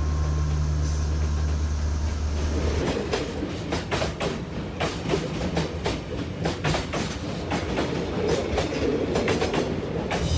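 A train passing close by: a steady low hum at first, then from about three seconds in a continuous clatter and clicking of its wheels running over the rails.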